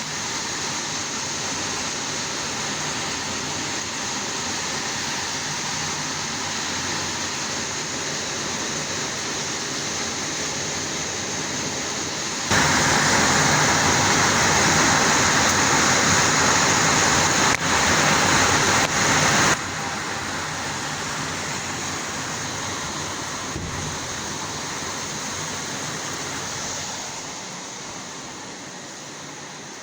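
Steady rain falling. It turns abruptly louder for about seven seconds in the middle, then drops back just as suddenly.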